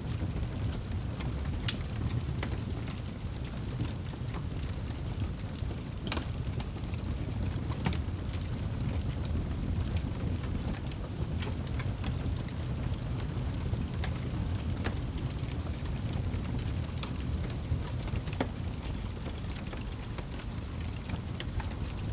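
Fire crackling with irregular sharp pops over a steady low rumble and hiss of rain.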